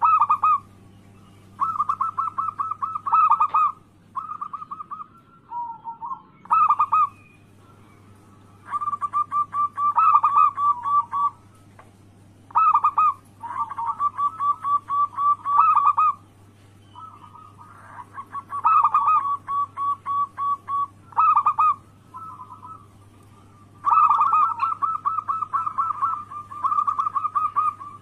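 Zebra dove (perkutut) cooing: repeated runs of quick staccato coos at much the same pitch, each run lasting a second or two, with short pauses between.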